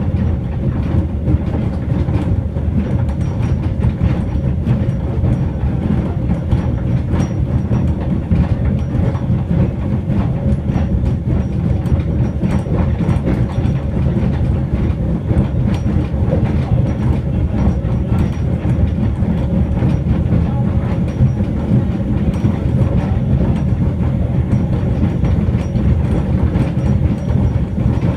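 Small train running steadily along the track, heard from aboard: a continuous low rumble with frequent clicks of the wheels over the rail.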